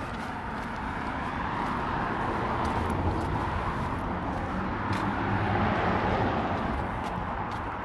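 A car driving past. Its engine and tyre noise swells to a peak midway and then fades as it moves away.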